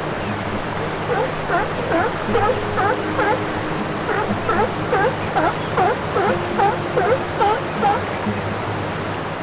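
Steady rushing water with a run of short, quickly repeated chirping calls, about two a second, over a low steady hum.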